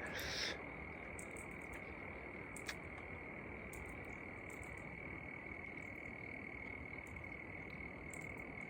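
Steady background chorus of calling frogs, a continuous high-pitched tone, with a brief louder rustle-like noise at the very start and a few short high clicks scattered through.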